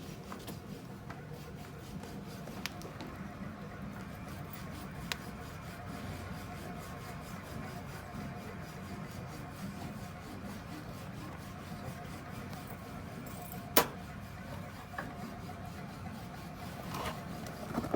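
Small Stirling hot-air engine fan running with a steady, fast mechanical whirr and a faint hum; a few light clicks and one sharp click about 14 seconds in.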